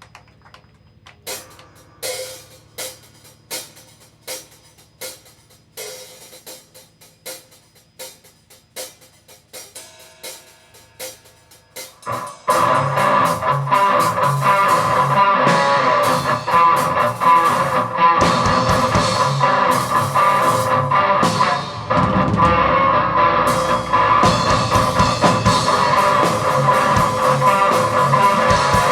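Rock band playing live, with guitars and a drum kit. The song opens quietly with sparse sharp hits about two a second, then about twelve seconds in the full band comes in loud and keeps going.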